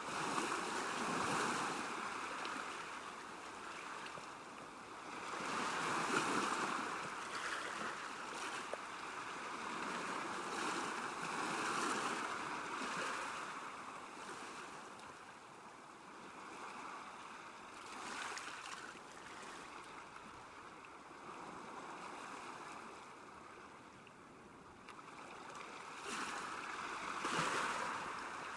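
Small waves lapping at a lakeshore, the water sound swelling and ebbing in irregular surges every few seconds.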